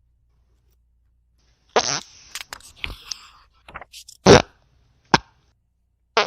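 A string of short fart sounds, the first about two seconds in and the loudest a little past four seconds, with light paper rustles and page flicks between them.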